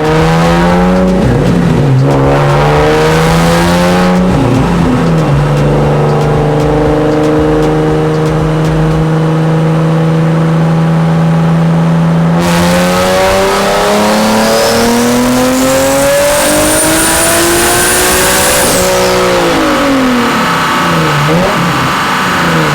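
Single-turbo Nissan 370Z's V6 engine running on a chassis dyno: the revs rise briefly, dip, hold steady for about ten seconds, then climb in one long wide-open pull with a high whistle rising alongside. The revs drop away about nineteen seconds in.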